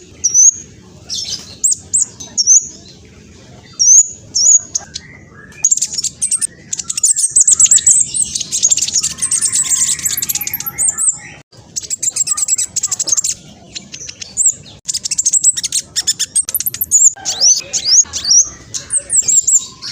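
Black sunbird singing fast and high-pitched: sharp down-slurred chips and long rapid chattering trills, in runs that start about six seconds in and come again several times toward the end.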